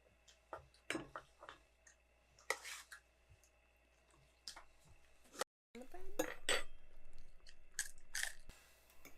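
Cutlery and dishes clinking during a meal: scattered light clicks and knocks of forks on plates.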